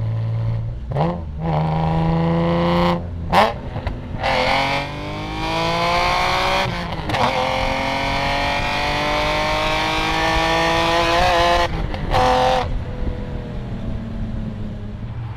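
BMW E46 M3's S54 straight-six, fitted with Euro headers and a Status Gruppe V1 muffler, accelerating hard through the gears: the revs climb in several pulls broken by quick upshifts, the longest pull rising steadily for about seven seconds. Near the end the revs fall away as the driver lifts off.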